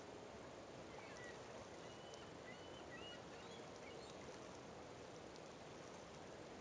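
Faint, steady outdoor hiss, with a handful of short, faint bird chirps from about one to four seconds in.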